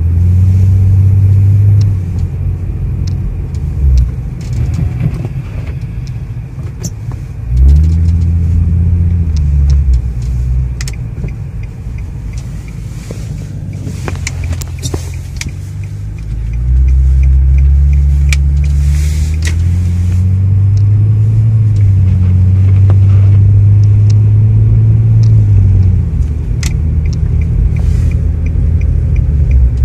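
Infiniti G35x AWD's 3.5-litre V6 engine and tyres heard from inside the cabin while driving on snow: a low steady rumble, with the engine revving up and settling back about eight seconds in and again for a longer stretch from about seventeen to twenty-six seconds. Scattered light clicks sound over it.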